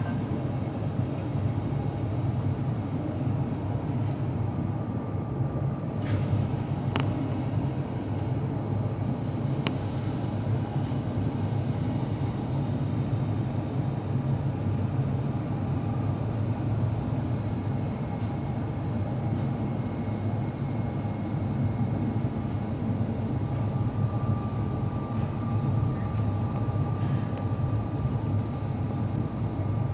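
Steady airliner cabin noise inside an Airbus A350-900 on descent: a low rumble of airflow and engine hum, with a faint high whine that grows a little stronger in the last few seconds and a few faint clicks.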